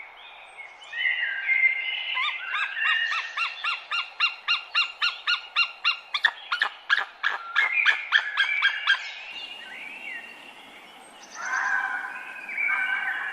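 A bird singing: a long run of repeated short notes that gets louder and quicker, stopping about nine seconds in, then a few more calls near the end.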